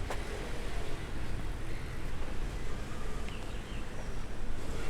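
Outdoor background noise: a steady low rumble with no clear engine, and a faint short bird chirp about three seconds in.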